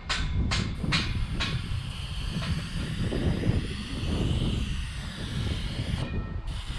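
Power tool working a wooden carving, a steady hissing noise over a low rumble, with a few sharp clicks about half a second apart in the first second and a half.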